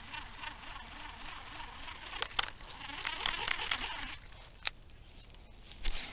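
Fishing reel being cranked, a fine whirring, clicking texture that stops about four seconds in, followed by a couple of sharp clicks.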